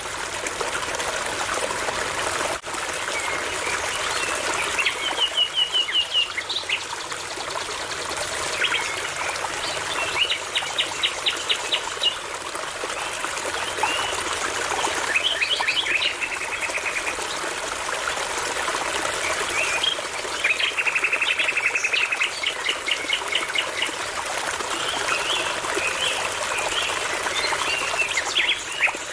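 A nightingale singing in phrases of rapid repeated notes, several times with pauses between, over the steady babbling of a brook.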